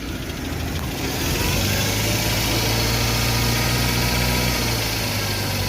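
Car engine running with the alternator belt off, in a test to isolate a strange noise that the mechanic blames on a worn air-conditioning compressor. The engine comes up a little about a second in and eases back slightly near the end.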